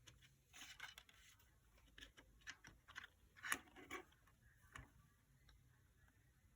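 Faint scattered clicks, taps and short scrapes, a dozen or so irregular strokes with the sharpest about halfway through; no beeping is heard.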